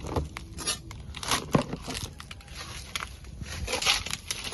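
Irregular rustling and crackling of leaves and plants being pushed aside and handled in short bursts.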